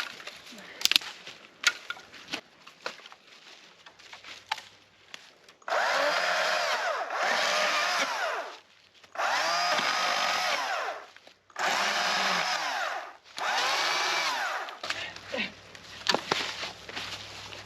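Electric power tool running in four bursts of one and a half to three seconds each, its pitch dipping and rising as it works under load, after a few seconds of scattered sharp clicks and knocks.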